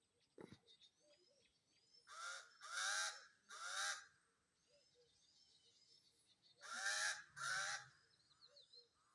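Geese honking: three harsh honks in quick succession, then two more a few seconds later, over faint chirping of small birds.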